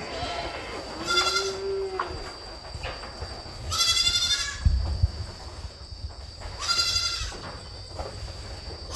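Goats bleating, with loud drawn-out bleats about three seconds apart, three times, and a lower call among them near the start.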